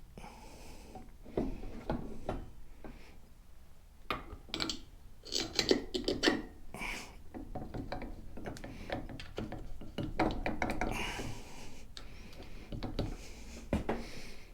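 Irregular scraping, rubbing and light knocks of motorcycle front-end parts being handled and fitted together, with louder clusters of clatter in the middle.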